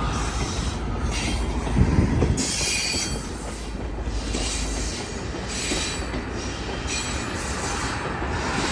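Passenger train running on the track: a steady rumble of wheels on rail, with high wheel noise that swells and fades about once a second and a heavier thump about two seconds in.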